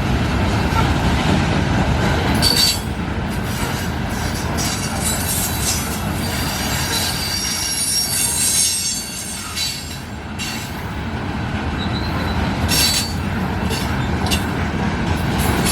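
Freight train cars rolling past, a steady rumble of wheels on the rails with high wheel squeal in the middle and a few sharp clanks spread throughout.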